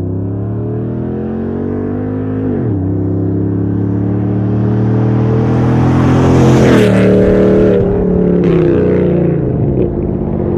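Ram 1500 Hemi V8 with long-tube headers and Carven Competitor mufflers, accelerating hard past. The pitch climbs, drops at an upshift a few seconds in, climbs again, and drops at a second upshift as the truck goes by at its loudest, then pulls away still revving.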